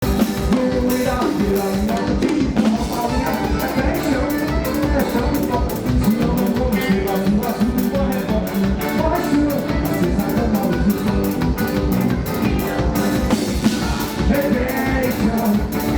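A live band playing upbeat forró, the drum kit driving a fast, steady beat with a regular bass drum under it.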